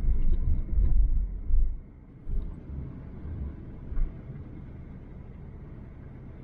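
Hurricane-force wind buffeting the microphone in uneven deep rumbling gusts, heaviest in the first two seconds, with a single gust about four seconds in, over a faint steady hiss.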